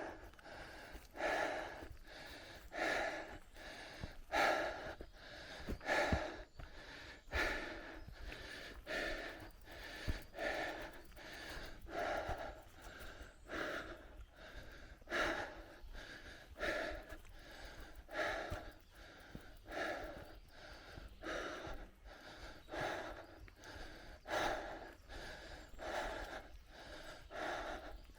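A cyclist breathing hard and rhythmically, a heavy breath about every second and a half, over a low rumble and occasional knocks from the bike on the trail.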